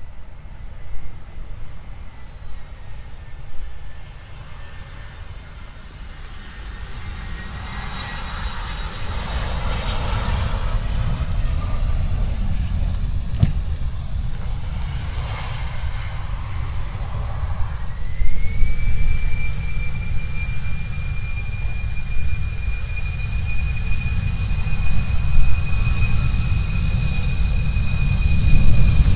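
Airliner engines running and growing louder, with heavy low rumble. A high whine rises over about a second partway through, then holds steady as the engines spool up.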